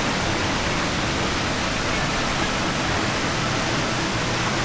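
Steady rushing of a waterfall, an even full-range roar of falling water that does not change.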